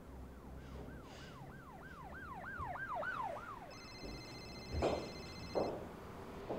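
A warbling, siren-like tone sweeping up and down about four times a second, swelling and then fading over about three seconds. It is followed by a held chord of high steady tones lasting about two seconds, with two soft knocks near the end.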